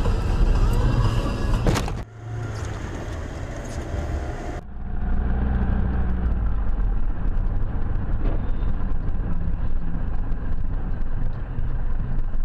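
Car driving noise from the engine and tyres on the road, picked up by a dashboard camera. The sound changes abruptly about two seconds in and again between four and five seconds in, with a sharp knock just before the first change.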